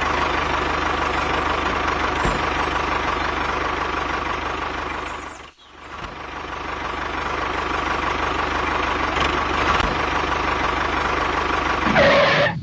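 A tractor engine running steadily. It drops out in a brief gap about halfway through, then builds back up to the same steady running.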